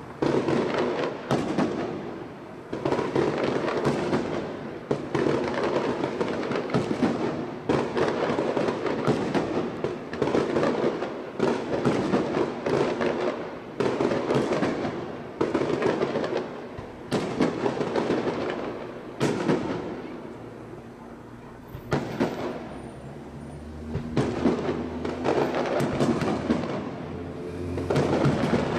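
Aerial fireworks display: shells bursting in quick succession, sharp bangs over a continuous crackle. It eases off briefly about twenty seconds in, then builds up again.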